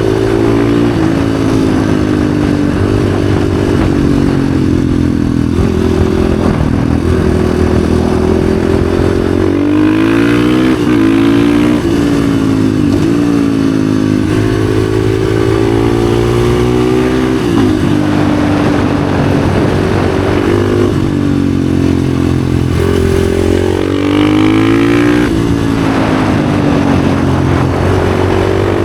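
Husqvarna FE 450's single-cylinder four-stroke engine through an FMF exhaust, ridden hard: revs climb and step down through the gears, and several times drop off sharply and pick up again.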